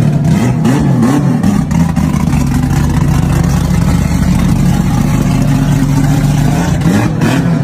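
Chevrolet Opala Comodoro's naturally aspirated engine revved in two quick blips, then settling to a steady idle, with another short rev near the end.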